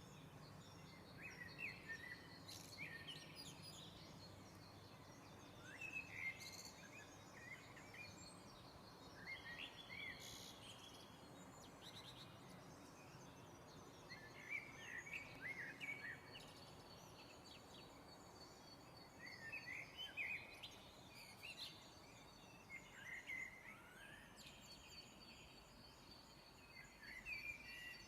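Dawn chorus: birds singing faintly in short, chirpy phrases that come every few seconds, over a soft steady hiss. A thin, steady high-pitched tone runs under the songs from about ten seconds in.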